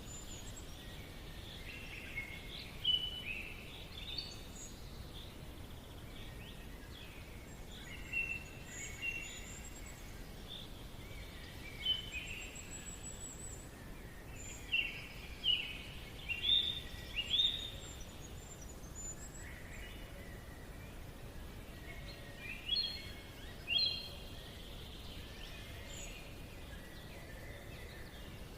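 Forest birds singing: short chirps and trills, some in quick clusters and a few thin very high notes, come and go over a steady low background hiss.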